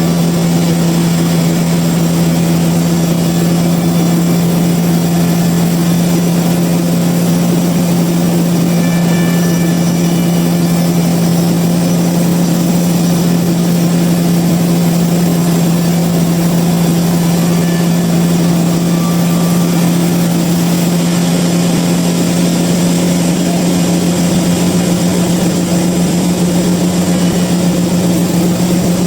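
Sawmill machinery running steadily, a constant loud hum with no cuts, starts or stops.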